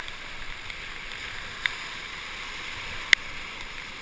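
Whitewater rapids rushing steadily around a paddle raft, with a few sharp knocks, the loudest about three seconds in.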